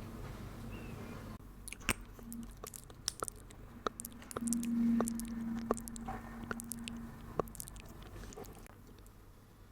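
Close-miked ASMR mouth sounds: a run of sharp, wet clicks and smacks, with a low steady hum for a few seconds in the middle.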